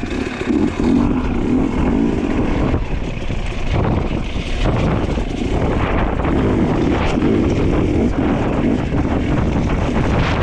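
Dirt bike engine running under way, its note wavering as the throttle changes, with wind buffeting the microphone.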